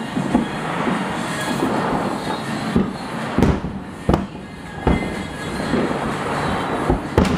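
Aerial fireworks shells bursting: about six sharp booms at uneven intervals, over a steady rushing noise between them.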